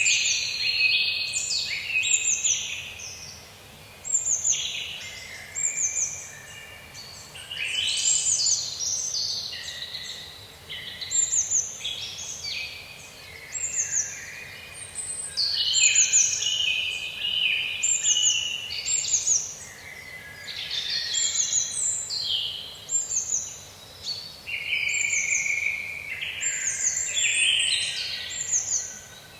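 Several forest songbirds singing at once: overlapping bursts of quick chirps and whistled phrases, some high, quick falling notes repeating every second or so, over a faint steady background hiss.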